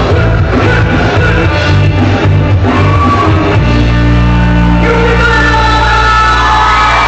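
Live ska band playing loud, with shouted singing over a rhythmic beat. About halfway through, the band holds one sustained chord.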